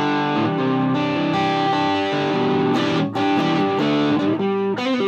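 Gibson Les Paul electric guitar played through a Mesa Boogie Dual Rectifier tube amp and a Marshall 4x12 cabinet: overdriven chords and notes ringing out and changing several times, with a brief break about three seconds in.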